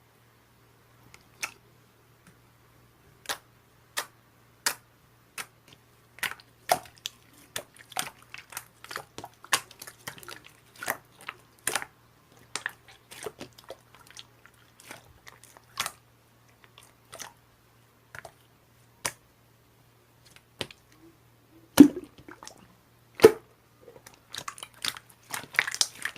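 Sharp, irregular clicks and crunches close to the microphone, one to three a second, growing denser near the end, with the loudest pair a little past the middle.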